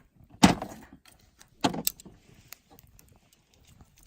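Two short clattering knocks about a second and a half apart, with a few lighter clicks in between: objects being handled and set down.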